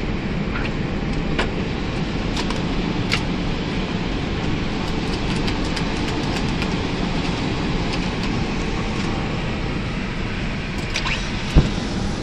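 Steady rumbling noise inside an Airbus A321 cockpit, with scattered small rattles and clicks and one sharp thump near the end.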